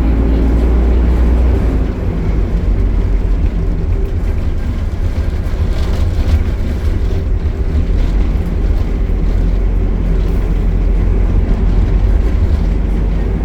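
Optare Solo bus with an Allison automatic gearbox running, a steady low drone whose deep tone drops about two seconds in.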